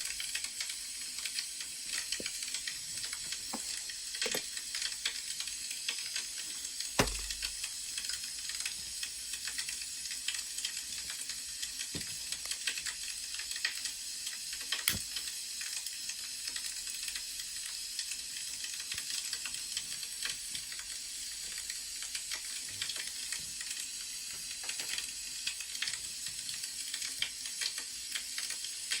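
Crackling wood fire: a steady hiss with scattered small pops and crackles. A sharper knock with a dull thud comes about seven seconds in.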